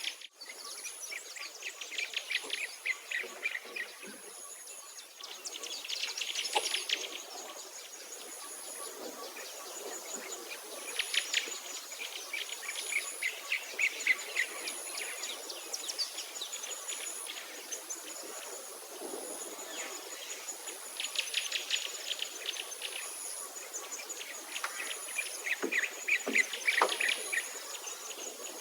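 Birds singing: a series of rapid, high trills, each a second or two long, repeating every few seconds.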